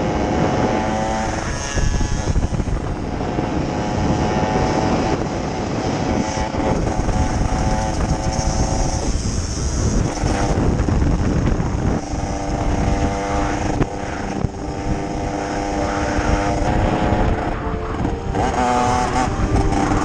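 Small moped and scooter engines running and revving, their pitch holding for a few seconds and then shifting.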